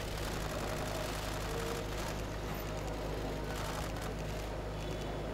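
A vehicle engine idling steadily, a constant low hum under general street noise.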